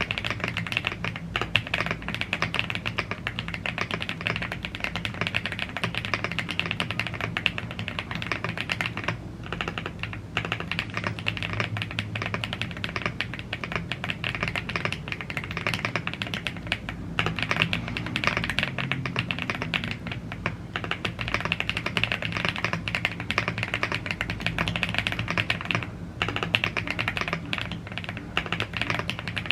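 Continuous fast typing on a YUNZII AL75 gasket-mounted aluminium mechanical keyboard with Blue Grey tactile switches and double-shot PBT keycaps: a dense run of keystroke clacks with a few short pauses.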